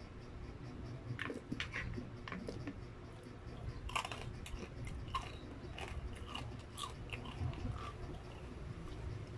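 Close-up crunching and chewing of crispy, deep-fried battered chicken proben, with many short crackles of the coating.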